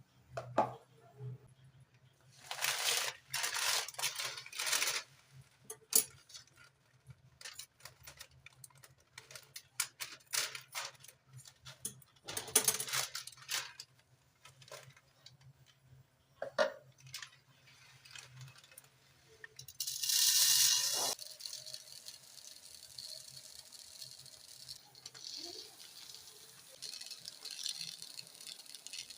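Household items being handled: scattered clicks and knocks with short rattling, rustling bursts, a louder hissing burst about two-thirds through, then a steady faint hiss.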